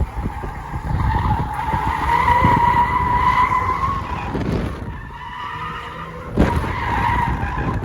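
Tyres squealing through a drift on a VW Golf 8 R, heard from inside the car: a steady high screech for about three seconds, then a second shorter squeal near the end, over the engine running hard. A sharp knock comes just before the second squeal.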